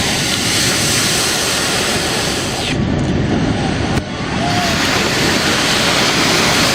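Heavy storm surf washing and breaking, with wind on the microphone: a dense, steady rush of water that changes abruptly about three and four seconds in.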